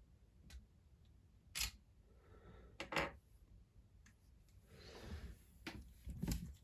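Handling noise: a few separate sharp clicks and knocks, with soft rustling between them, as the Lego set is moved into place.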